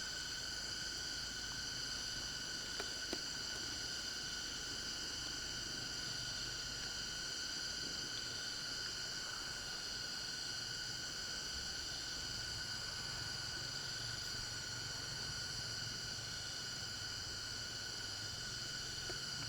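Steady, shrill insect chorus trilling continuously at an even level, with a couple of faint clicks about three seconds in.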